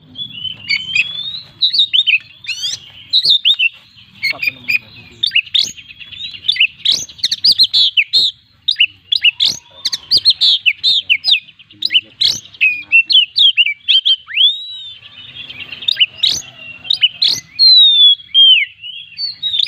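Oriental magpie-robin (kacer) in full song: a continuous, varied stream of loud whistles, up- and down-sweeping notes and rapid trills, packed with mimicked phrases.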